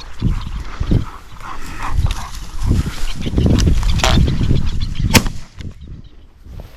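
A single shotgun shot about five seconds in, sharp and loud over a steady low rumble of wind and movement: a hunter firing at a flushed covey of upland game birds.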